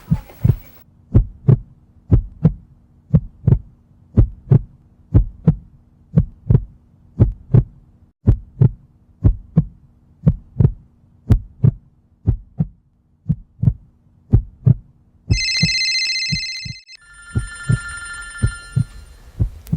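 Heartbeat sound effect: steady paired lub-dub thumps over a low hum. About fifteen seconds in, a telephone rings loudly for about a second and a half, then a second ringing tone follows while the heartbeat goes on.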